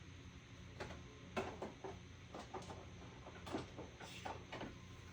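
A handful of light clicks, taps and rustles from small objects or papers being handled, over a low steady hum.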